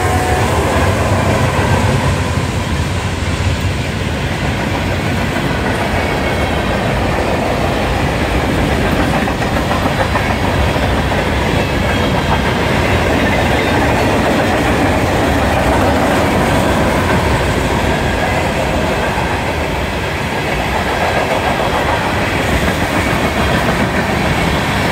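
Union Pacific manifest freight train passing close by: the trailing locomotive and then loaded freight cars rolling past, a loud, steady rumble of wheels on rail.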